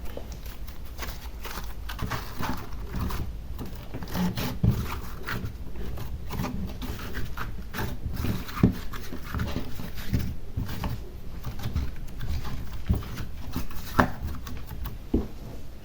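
Slime being kneaded and mixed by hand, with irregular sticky clicks, pops and squishes.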